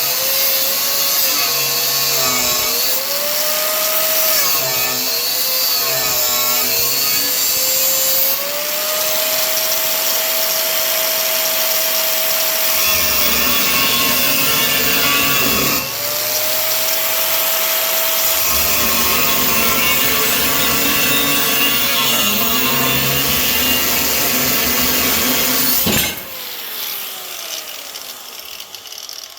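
Power tool cutting 1/8-inch steel angle iron. Its motor whine sags in pitch each time the cut bites and climbs back between, with two longer stretches of heavy cutting. Near the end it is switched off and winds down with a falling tone.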